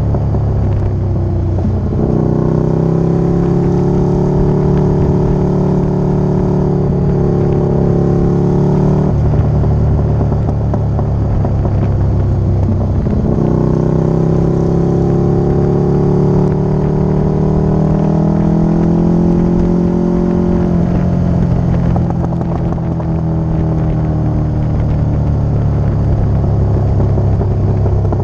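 Motorcycle engine running on the road, its pitch climbing and then dropping several times as the throttle opens and closes.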